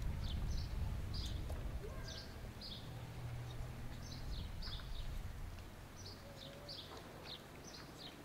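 A small bird calling over and over in short, high, falling chirps, about two to three a second, over a faint low hum that fades about five seconds in.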